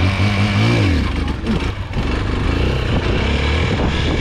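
Dirt bike engine bogging under throttle: its revs drop about a second in, then it runs on steadily at lower revs.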